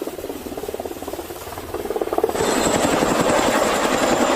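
Helicopter rotor beating in fast, even pulses, which jump suddenly much louder about two seconds in, with a thin high whine over them.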